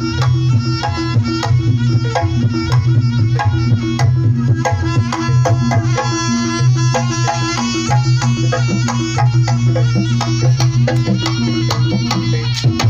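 Jaranan music: hand drums played in a busy, driving rhythm over a dense run of struck, ringing pitched notes and a steady low hum.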